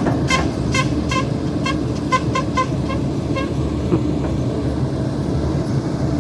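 A vehicle horn tooted in a quick, uneven series of about a dozen short beeps for the first three and a half seconds, honked playfully between the crew. Under it a heavy diesel engine runs steadily.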